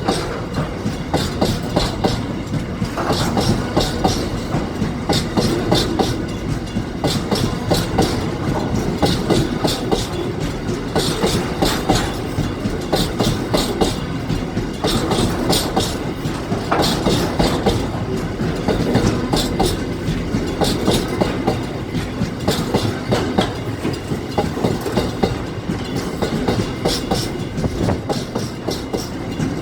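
Freight train's container wagons rolling past, steel wheels clicking over the rail joints in repeated groups over a continuous rumble.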